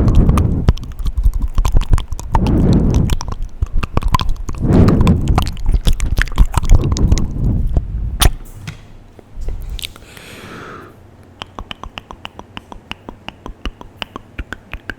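Close-miked, very sensitive ASMR mouth sounds: dense wet clicks and smacks of lips and tongue with low rumbling swells of air on the microphone. After about eight seconds it drops quieter, with a short soft breathy sound and then evenly spaced mouth clicks about two a second.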